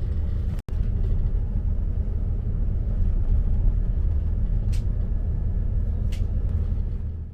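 East Midlands Railway diesel multiple unit running along the line, heard from on board: a steady low rumble that cuts out for an instant under a second in.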